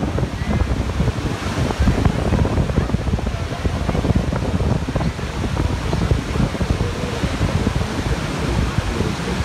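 Heavy wind buffeting on the microphone over a steady rushing roar of falling water and spray close to Niagara's Horseshoe Falls.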